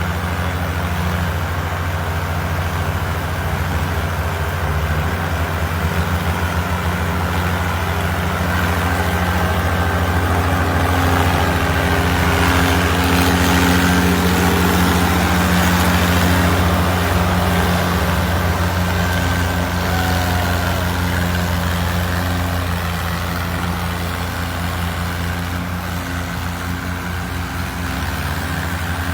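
Sawmill machinery running steadily with a low, even engine-like hum, growing louder in the middle and easing off again near the end.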